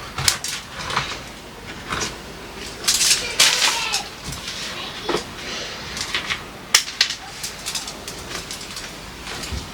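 Irregular clinks, knocks and rattles of food containers and bottles being handled and set down while a refrigerator is cleared out and restocked, with a brief squeak about three and a half seconds in.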